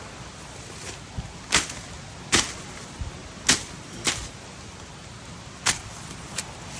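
About six sharp, quick swishing strikes through brush at irregular intervals, like vegetation being slashed or whipped aside, over a steady hiss.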